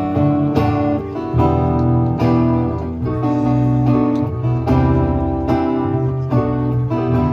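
Live band playing an instrumental passage: guitar strumming chords over bass and keyboard, with a cajon keeping the beat.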